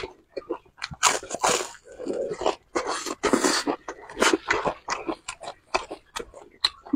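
Close-up wet chewing and lip-smacking of a person eating sauced meat, a rapid irregular run of clicks and smacks, with two longer, louder mouth noises about one and three seconds in.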